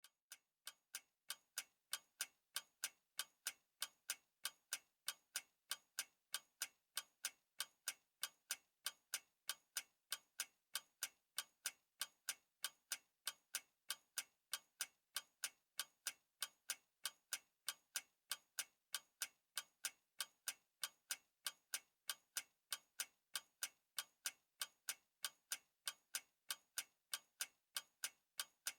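Clock ticking: sharp, evenly spaced ticks, a few each second, the first couple softer.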